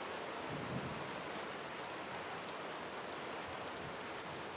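Steady soft rain, an even hiss with scattered faint drop ticks.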